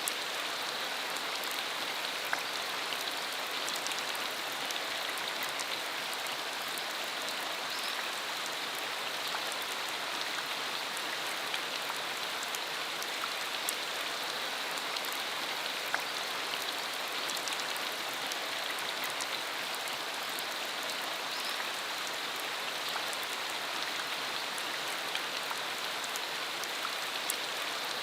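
Steady rain shower falling, an even hiss with occasional sharper drop ticks.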